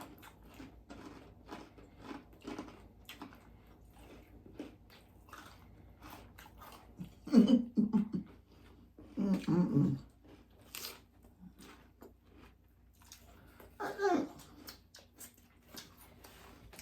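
Close-up chewing and crunching of crispy chicken and bacon lettuce wraps, a steady run of small crackling bites. A few louder, short, low voice-like sounds cut in about halfway through and again near the end.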